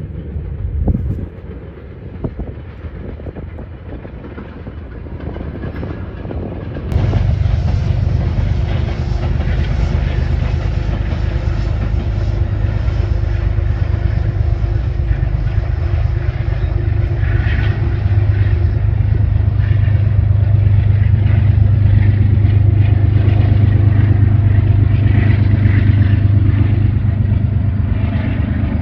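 A train going by: a steady low drone that comes in suddenly about seven seconds in, grows louder and eases slightly near the end.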